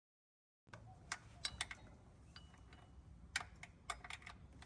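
Scattered light clicks and clinks of hand tools against metal on the engine as a 19 mm wrench is fitted onto the belt tensioner. They start about half a second in, over a faint low hum.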